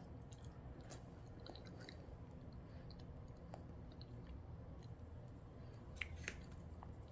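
Faint mouth sounds of a person chewing soft avocado flesh, with small scattered clicks and two sharper clicks about six seconds in.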